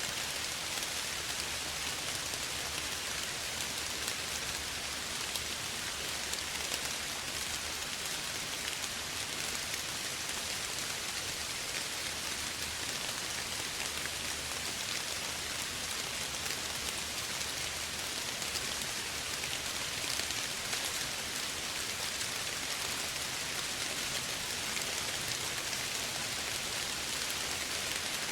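Steady soft rain falling, an even pattering hiss of many raindrops with no change in strength.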